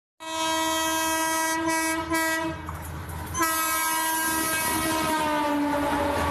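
Indian Railways diesel locomotive sounding its horn in two long blasts, the second dropping in pitch partway through as the train goes by, over the low rumble of the train.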